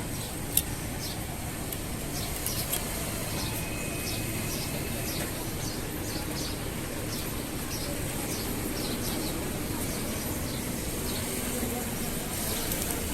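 Small birds chirping again and again, short high chirps over a steady low background rumble, with one sharp click about half a second in.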